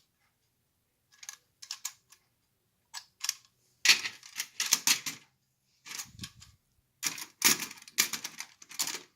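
Clicking and rattling from a metal Lionel prewar toy tank car being handled and turned over, in several short clattering bursts with pauses between. The loudest bursts are about four seconds in and again near the end.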